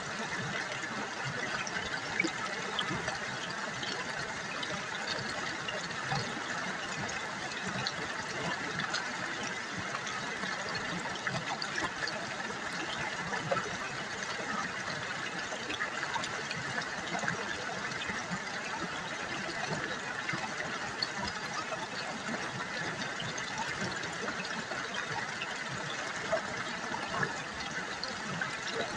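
River water babbling and trickling over stones, a steady splashing with small scattered drips.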